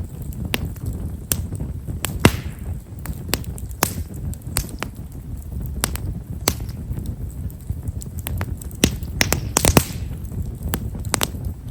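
Japanese stewartia (himeshara) firewood burning in an open fire: irregular, sharp crackles and pops over a low steady rumble of flame. A louder pop with a short hiss comes about two seconds in, and a quick cluster of pops near the end.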